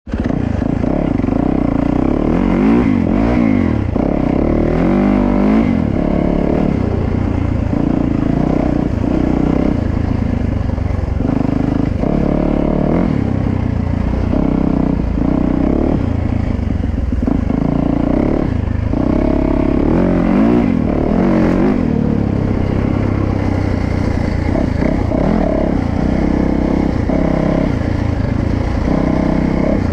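Dirt bike engine revving while being ridden, its pitch climbing and dropping over and over as the throttle opens and closes.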